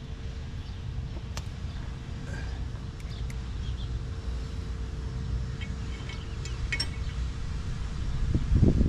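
Scattered light metallic clinks of tools and brake parts being handled during a front brake job, over a steady low rumble, with a heavier knocking just before the end.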